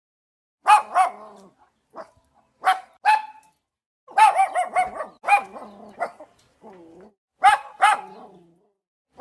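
A dog barking in quick pairs and short runs of sharp barks, with brief pauses between them.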